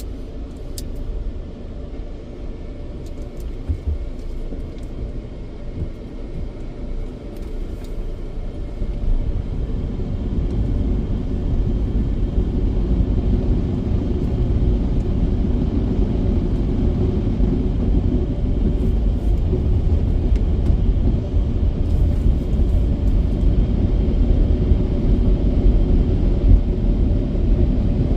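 Washworld Razor automatic car wash machinery running: a low, steady rumble that builds and grows louder from about a third of the way in.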